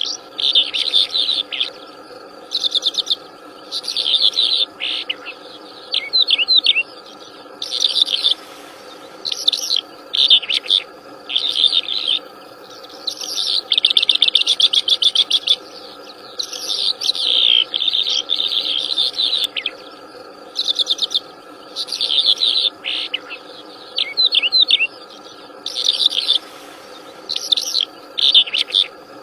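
Wild songbird singing energetically: repeated bursts of quick high chirps and trills, each lasting about a second, with short pauses between, over a steady faint background hum.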